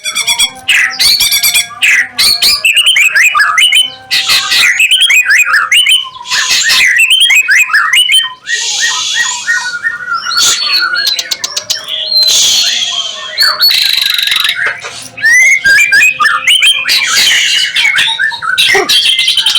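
Caged songbirds, a murai among them, singing a rapid, varied song of whistled rising and falling notes, broken by three harsh rasping calls in the second half.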